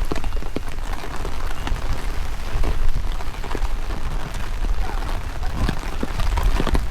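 Steady rain falling, with scattered sharp clicks of single drops, over a heavy low rumble of strong wind buffeting the microphone.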